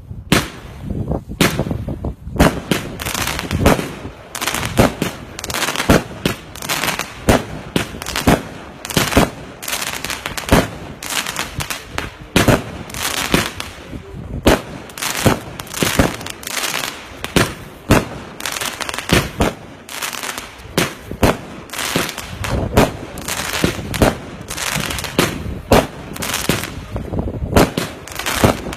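Multi-shot fireworks cakes firing in quick succession: a continuous string of bangs, several a second, with crackle between them.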